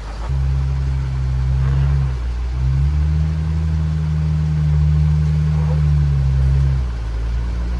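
Jeep engine pulling under throttle, easing off briefly about two seconds in, then holding steady before dropping back near the end.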